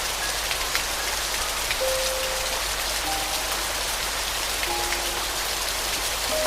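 Steady rain falling, with many separate drops pattering, over a few soft piano notes played one at a time.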